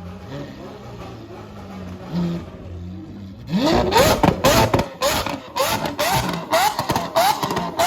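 Lamborghini Aventador V12 idling, then from about three and a half seconds in revved in quick repeated blips, about two a second, each pitch rising sharply, with loud cracks from the exhaust between the revs.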